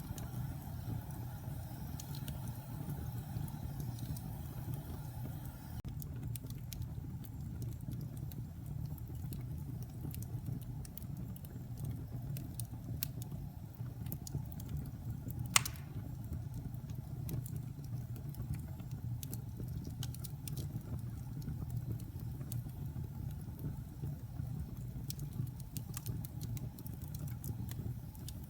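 Log fire burning: a steady low rumble of flames with scattered small crackles, and one sharp, loud pop about halfway through.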